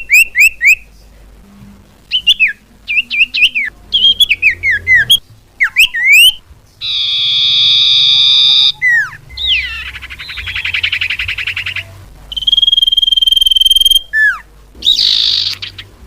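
Common iora (cipoh/sirtu) calling, as played on a bird-lure recording. Quick downslurred chirps come in clusters, then a harsh buzzy call of about two seconds, a rapid trill, a steady high whistle and one last short burst near the end.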